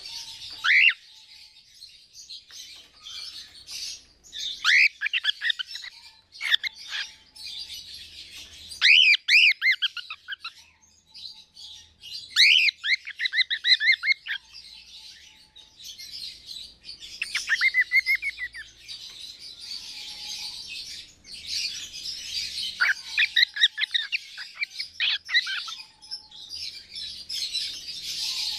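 Parrots calling: clusters of quick chirps and squawks in bursts, over a constant high chatter of calls.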